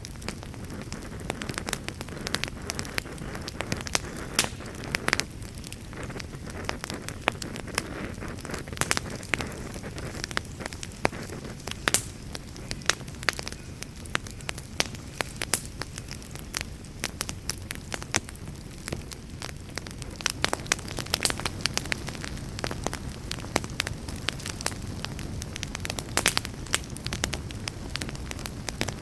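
Wood campfire crackling, with many irregular sharp snaps and pops over a steady low rush.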